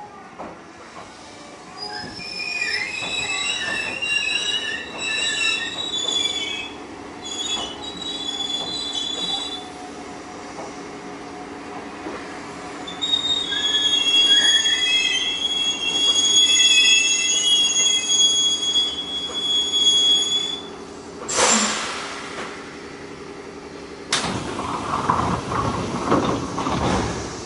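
Iyo Railway 610 series electric train braking into a terminus, heard from inside the carriage: a running rumble with two long spells of high-pitched, wavering squealing as it slows. The train stops with a short, sharp burst of air about three quarters of the way through, then a longer hiss near the end.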